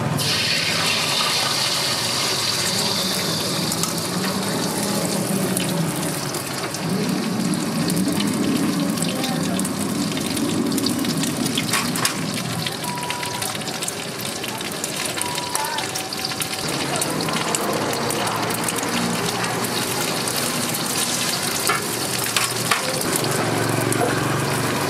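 Food frying in a hot pan at a street stall: a steady sizzling hiss.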